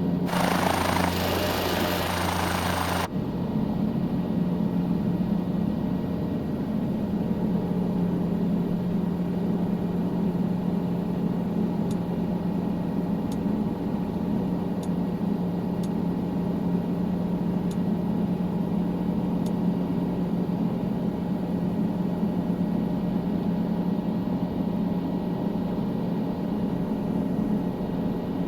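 Helicopter in flight: a steady drone of engine and rotor. A louder hiss lies over it for the first three seconds and then cuts off suddenly.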